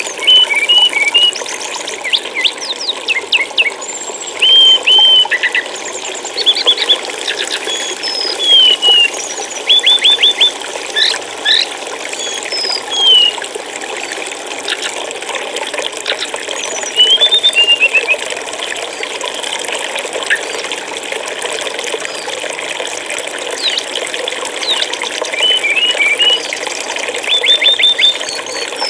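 Flowing water running steadily, with small songbirds chirping over it throughout: short repeated high notes, quick trills and brief falling whistles.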